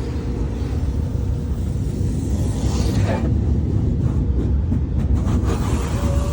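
Automatic car wash equipment working over the car, heard from inside the cabin: a steady low rumble with a high hiss that fades about three seconds in.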